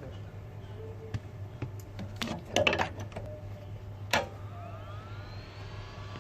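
Several clicks and taps of small tools and phone parts being handled, the loudest a sharp click about four seconds in. Right after it, a hot-air rework gun's blower spins up, a rising whine that levels off.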